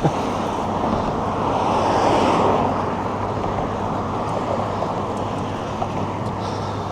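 Road traffic noise heard from a bicycle, with wind blowing on the microphone; the noise swells about two seconds in, as of a vehicle going by.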